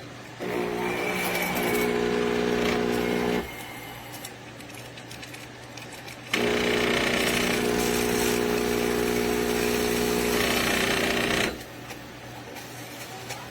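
Laekerrt espresso machine's pump buzzing in two runs, one of about three seconds and a longer one of about five seconds, with a low steady hum between them.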